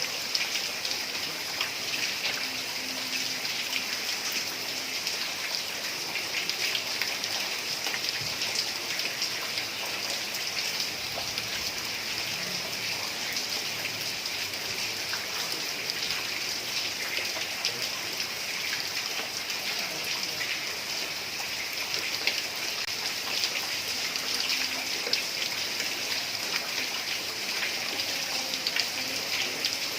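Heavy rain falling steadily on a tiled roof, a dense even patter of drops with no thunder.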